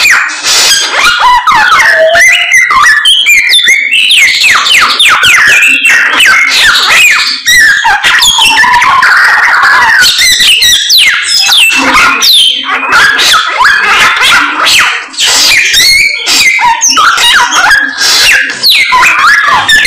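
Samyong songbird singing loudly in a rapid, continuous run of varied whistled and chattering notes that sweep up and down in pitch, pausing briefly twice.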